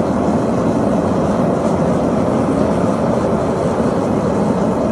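A forge running hot with a steady, even rushing noise that does not change. It is hot enough that coin nickel has melted into a puddle on the forge floor.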